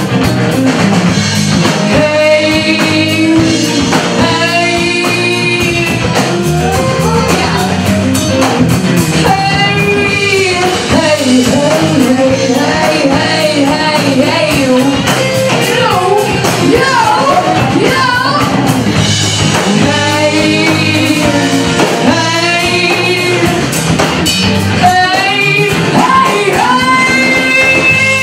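Live blues band playing, with electric guitar, drum kit and singing.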